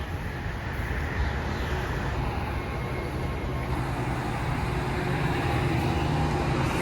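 A train running along the Northeast Corridor tracks past the station platform, a steady low noise that grows steadily louder.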